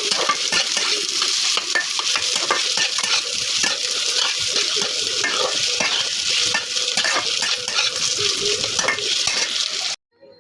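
Potatoes and onions frying in hot mustard oil in a pan, sizzling steadily while a spatula stirs and scrapes against the pan. The sizzle cuts off abruptly just before the end.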